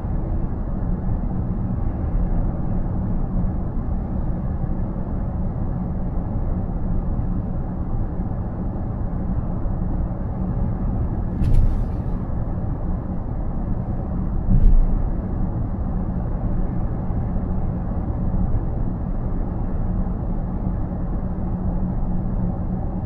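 Steady road and tyre noise heard inside a car cabin at highway speed, around 110–120 km/h. About halfway through come two brief sharp knocks a few seconds apart; the second has a low thud.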